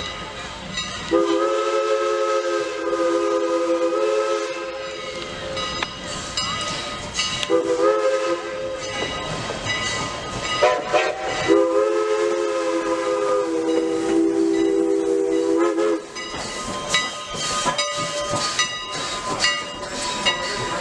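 Steam locomotive's multi-note whistle blowing long, long, short, long, the grade-crossing signal. After it, steam hiss and clanking and clicking from the passing train.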